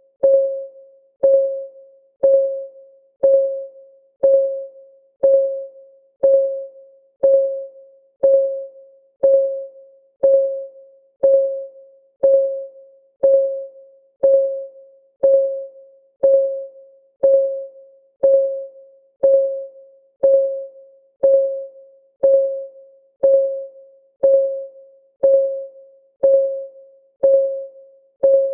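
Timer clock-ticking sound effect, one tick a second at an even pace. Each tick is a short pitched tock that rings briefly and fades before the next.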